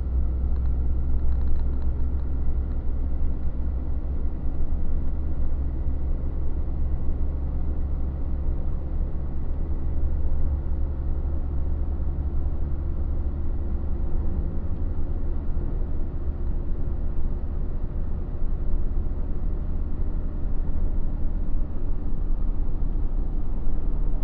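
Truck driving along, its engine and tyres making a steady low rumble.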